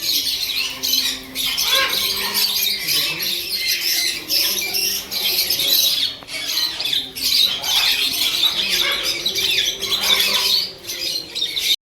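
A dense din of many caged birds, parrots among them, squawking and chirping at once. It cuts off suddenly near the end.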